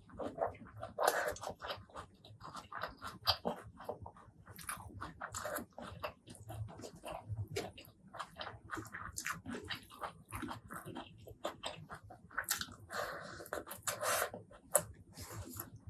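Close-miked mukbang eating sounds: wet chewing and lip-smacking made up of many small irregular clicks, with louder bites about a second in and again around thirteen seconds in.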